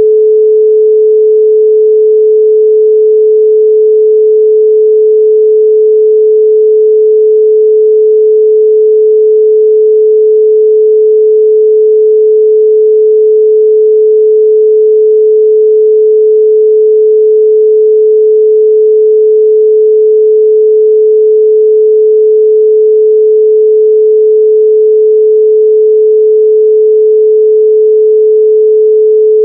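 A steady 432 Hz pure sine tone, loud and unchanging, with no other sound.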